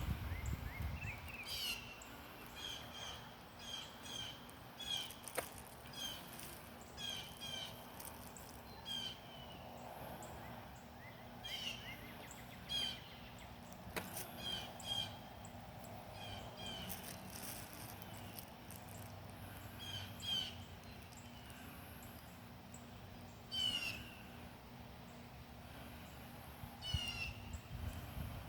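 Songbirds singing and calling: many short, repeated chirps, often about a second apart, over faint background noise.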